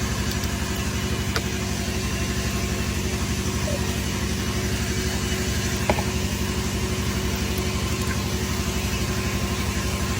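Car engine idling with a steady, even beat, freshly fitted with new spark plugs to cure misfire codes.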